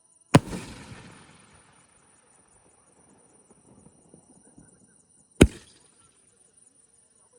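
Two loud bangs from a 3.5-inch aerial firework cake (Mr. Big 'Marvaleous 24'), about five seconds apart. The first trails off in crackle and echo over a second or so.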